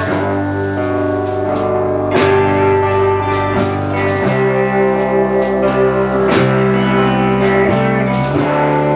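Live band playing an instrumental passage: electric guitar chords over bass and drum kit with a steady beat.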